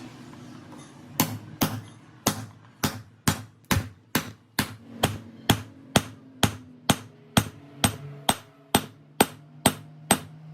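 Hammer striking metal in a steady, even rhythm, a little over two blows a second, starting about a second in.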